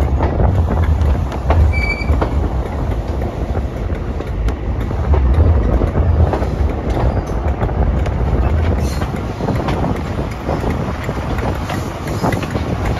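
High Speed Train set running along the line, heard from a carriage window: a steady low rumble with the clatter and clicks of wheels over the rails, and a brief faint high squeal about two seconds in.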